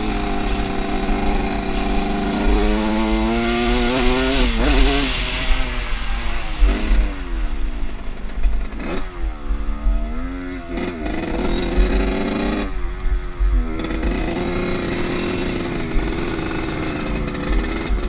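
Off-road motorcycle engine running under way, its note rising and falling twice as the rider opens and closes the throttle, with steadier running between.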